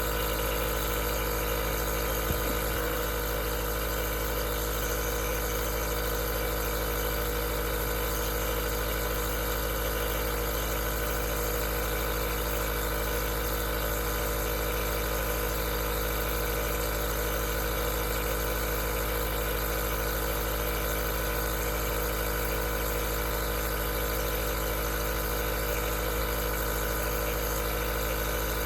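Aerosol nebulizer's compressor running steadily: a constant motor hum with hiss, with one brief tick about two seconds in.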